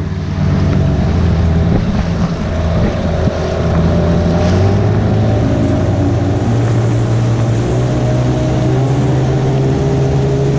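Several 15 hp outboard motors running at speed, pushing a small dinghy along, with steady engine tones that shift slightly in pitch. Wind buffets the microphone and water rushes past the hull.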